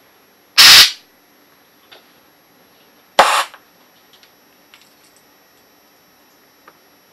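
Two short blasts of compressed air, about half a second in and about three seconds in, as parts of a scuba regulator first stage are blown out during overhaul. Faint small clicks of parts being handled follow.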